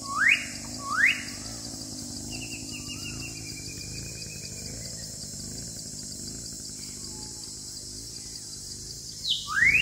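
A bird giving loud, quick rising whistles, two close together at the start and two more near the end, with a softer wavering trill between them, over a steady high hiss.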